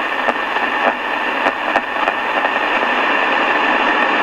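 Ultra Model 6146 transistor radio's speaker giving out steady shortwave static hiss, with a few crackles in the first couple of seconds. The radio is tuned off any readable station.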